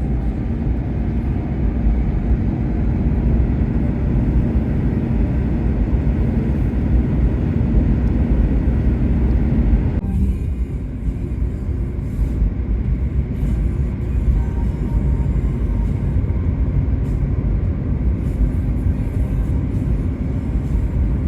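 Steady low rumble of road and engine noise inside a moving car's cabin, with a slight change in its character about ten seconds in.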